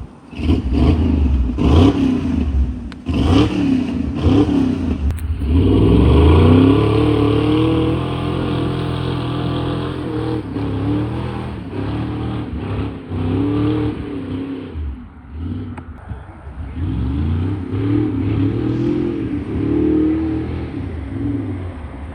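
A motor vehicle's engine running and revving, its pitch rising and falling several times, with a steadier stretch in the middle.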